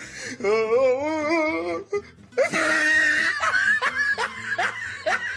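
Someone laughing in a high, wavering voice, then music starts about halfway through.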